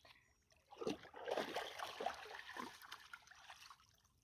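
A dog paddling in a stream, water splashing and trickling around it, starting about a second in and fading out near the end.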